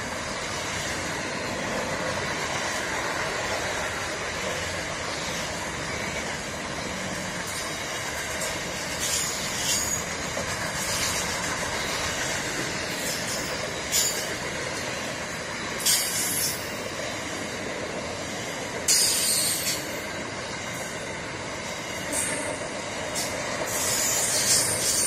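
Train cars rolling past at close range: a steady rolling noise of wheels on rail, broken every few seconds by short high-pitched wheel squeals, the loudest near the end.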